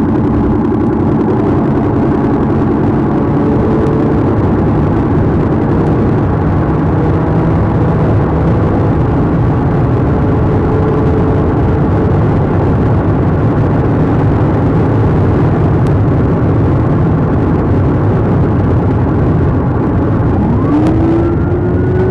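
Police car driving hard in a pursuit: steady engine and road noise, with a siren wail starting to rise near the end.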